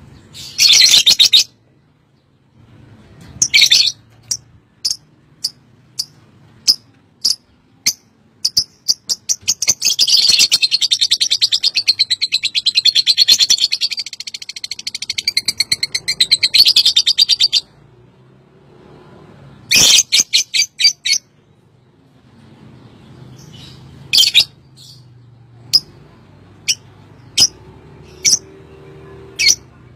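Lovebird calling: loud, sharp high chirps and spaced short ticking notes. In the middle comes a long rapid trill of fast repeated notes lasting about eight seconds, the sustained 'ngekek' call that lovebird keepers prize.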